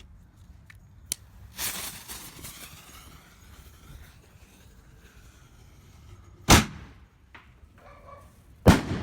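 Sir Lancelot 60-gram firework shell going off: a hissing fuse early on, then a sharp bang as the shell is launched, and about two seconds later a second loud bang as it bursts, trailing off.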